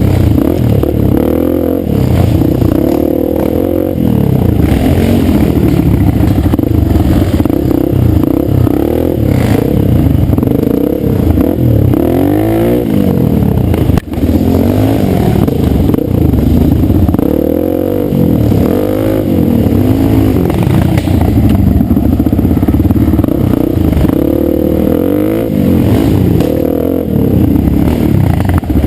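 Dirt bike engine, loud and close, revving up and falling back again and again as the bike is ridden, its pitch rising and dropping every second or two.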